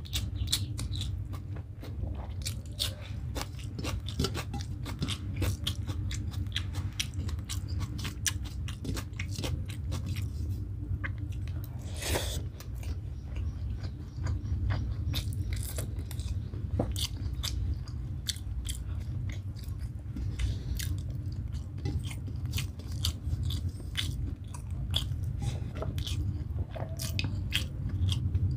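Close-up wet chewing and mouth smacking as a mouthful of rice and egg curry eaten by hand is chewed, with crunchy bites of raw green chili. A steady low hum lies underneath.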